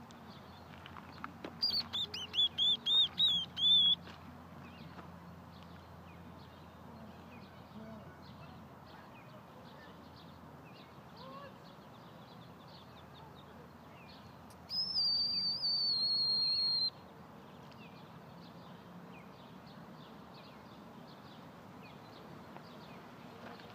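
High whistled bird calls: a quick run of about eight notes, then one long, slightly wavering whistle that drifts a little lower, with faint chirps in between.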